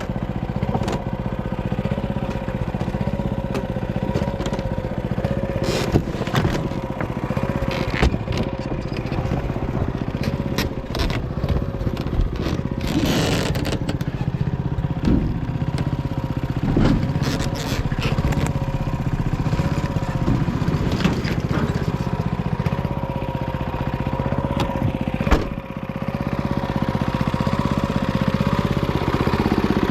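Panzer T70 tractor's engine running steadily while plowing, with a wavering whine over the drone and scattered sharp clunks and knocks, one of the loudest near the end.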